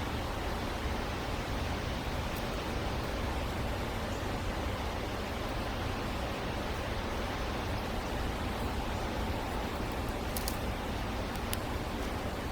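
Steady rushing background noise, heaviest in the low end, with a faint hum and a few faint high ticks.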